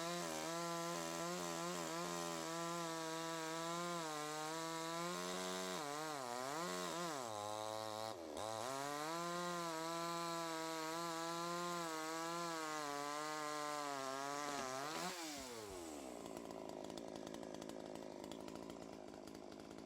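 Farmertec JonCutter two-stroke chainsaw cutting through a log at high revs, its pitch wavering under load and dipping briefly twice before climbing again. About 15 seconds in the revs fall away and the saw drops to a quieter idle.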